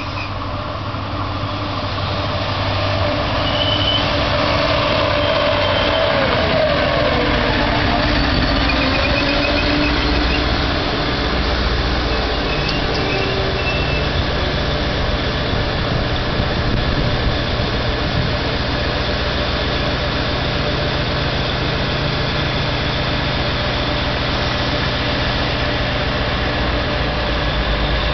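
Trenitalia regional multiple unit pulling into the station, getting louder over the first few seconds. A falling whine sounds about six to nine seconds in, then the train's steady low running hum carries on as it moves along the platform.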